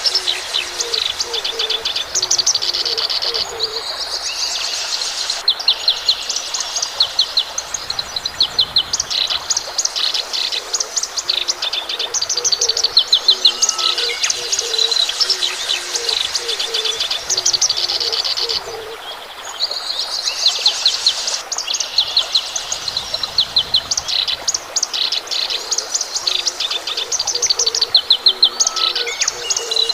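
Birds chirping and singing in fast repeated trilled phrases, with a low repeated call underneath, as in a dawn chorus.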